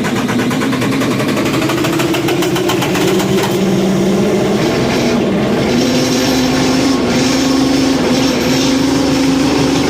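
Branson diesel tractor engine running just after a cold start. It is rough, with plain even pulses, for the first few seconds, and its pitch climbs slightly before it settles into a smoother steady idle.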